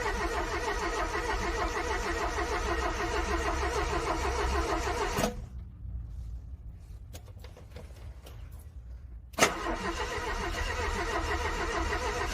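Cold car engine cranking on the starter without catching. The cranking stops abruptly about five seconds in, leaving a few faint clicks, then starts again with a sharp burst about four seconds later.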